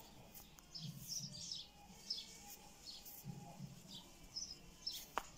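Birds chirping faintly: short, high, downward-sliding chirps repeated at irregular intervals, with one sharp click near the end.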